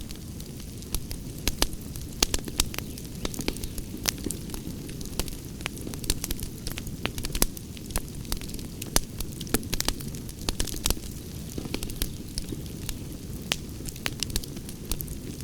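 Campfire burning: a steady low rumble with frequent sharp, irregular crackles and pops of burning wood.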